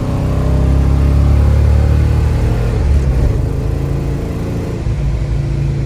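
A 1966 Chevrolet Nova Super Sport's V8 running hard under full acceleration through the four-speed's gears, hard enough to lay rubber into third gear. There is a brief sharp sound about three seconds in and a slight drop in level near the end.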